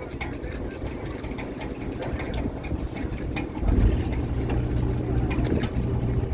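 Machinery on a fishing boat running steadily, with scattered light clicks; about two-thirds of the way in a deeper, louder hum sets in, as of an engine or hydraulic gear taking up load.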